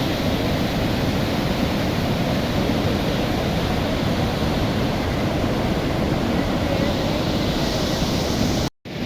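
Steady rushing noise of a swollen, fast-flowing flood river, cutting out abruptly for a moment near the end.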